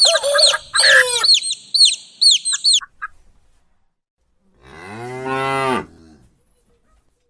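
A rapid series of short, high, downward-sliding bird calls for the first few seconds. Then, about four and a half seconds in, a single long, deep call from a large animal.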